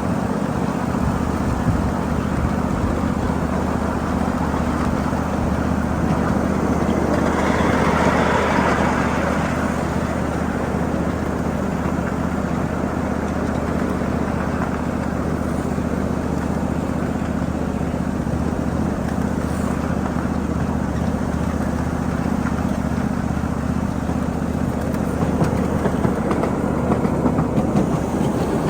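A 7.5-inch gauge ridable miniature train running steadily: a low drone with the rumble of wheels on rail. A swell of hiss rises about eight seconds in, and some uneven knocking comes near the end.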